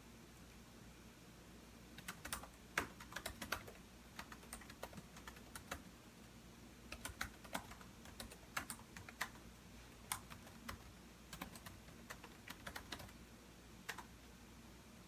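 Typing on a computer keyboard: irregular runs of keystrokes with short pauses, starting about two seconds in and stopping near the end.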